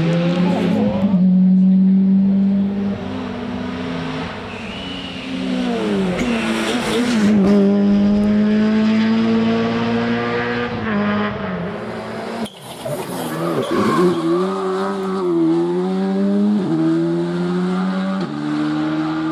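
Rally car engines revving hard on a stage, their pitch climbing and dropping back in steps through gear changes. A sudden break about two-thirds of the way through leads to another stretch of revving.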